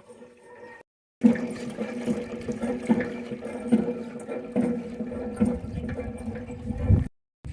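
Water splashing and sloshing in a vessel, with a sharp splash or knock repeating about every second.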